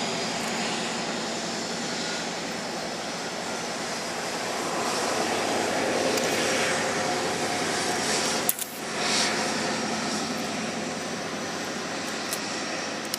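Diesel train running past, a steady rush and rumble. A sharp click about two-thirds of the way through is followed by a brief dip in the sound.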